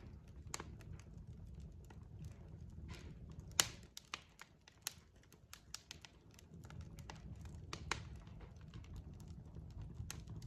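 Wood fire crackling: irregular snaps and pops from burning logs over a low rumble of flame, with the sharpest pop about a third of the way in.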